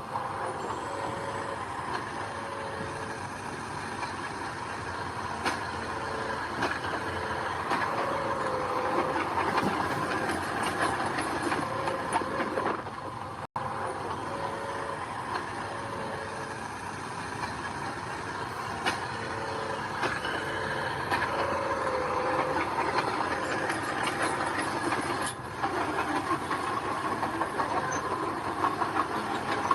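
Mini crawler bulldozer working gravel: its diesel engine runs steadily under the clank and squeal of its steel tracks, with short squealing tones over and over. The sound cuts out for an instant about halfway through.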